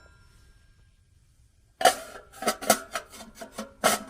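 Parts of a small steel camping wood stove clanking as they are handled: a quick run of sharp metallic knocks with a short ring, starting about two seconds in.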